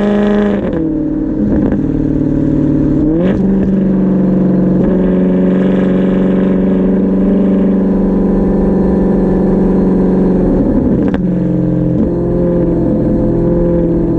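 Straight-piped (muffler-deleted) Maserati GranTurismo naturally aspirated V8 exhaust while driving, heard from inside the cabin. It runs mostly at steady revs, with its note stepping in pitch at gear changes about a second in, around three seconds in, and near the eleven-second mark.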